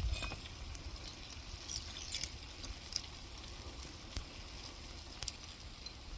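Fresh lava crust giving a scattered, irregular crackling and ticking as the flow creeps and cools, over a low wind rumble.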